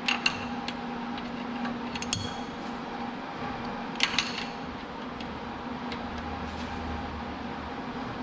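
A few sharp metal clinks of a spanner wrench being fitted and worked on a lathe part, over a steady machinery hum.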